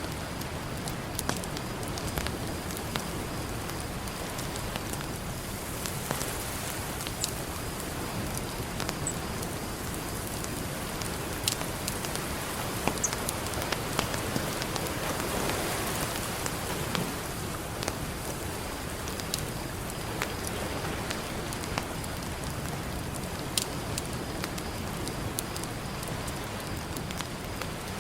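Campfire crackling, with sharp pops scattered irregularly, over a steady wash of ocean surf that swells up for a few seconds around the middle.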